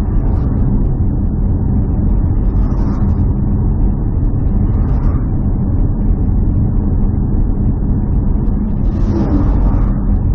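A motor vehicle running steadily, a continuous low engine rumble with faint brief rises in hiss at a few points.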